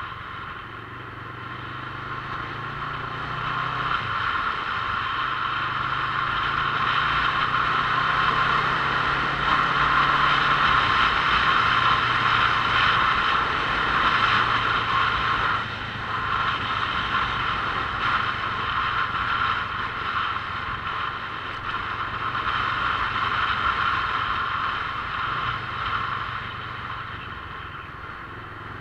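Motorcycle on the move: its engine runs under a steady rushing noise, and the engine's pitch steps up and down a few times. It gets louder toward the middle and eases off near the end.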